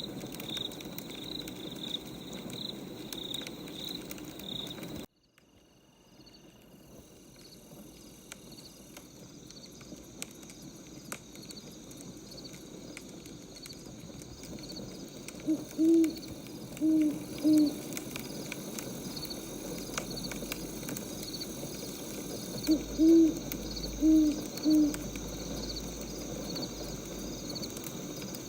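Night ambience of crickets chirping in a fast steady pulse, which cuts out abruptly about five seconds in and slowly fades back. An owl hoots in two short series of three or four low hoots, about halfway through and again near the end.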